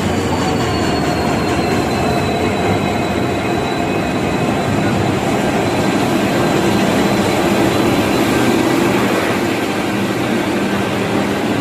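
Sampark Kranti Express train running on the track: a steady, loud rumble and clatter of wheels and cars. Thin whining tones slowly fall in pitch over the first few seconds.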